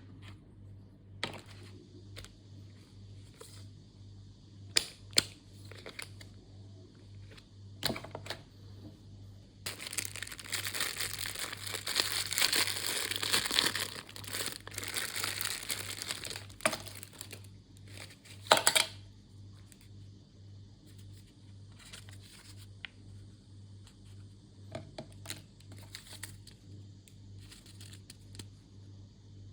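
Plastic ration packaging being handled, crinkling and tearing open. Scattered rustles and clicks give way to about six seconds of steady crinkling and tearing a third of the way in, followed by one sharp crackle, over a low steady hum.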